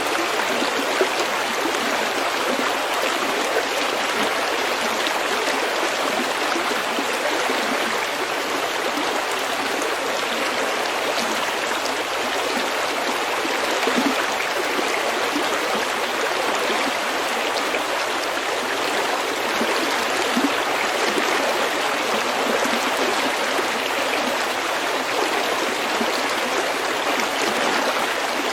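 Small stream babbling over pebbles: a steady, even rush of running water, with a few slightly louder splashes.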